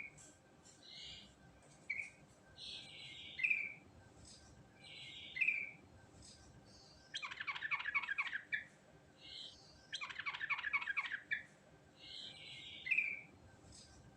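Yellow-vented bulbul (trucukan) singing: short bubbly phrases repeated every second or two, broken twice in the middle by longer runs of fast repeated chattering notes.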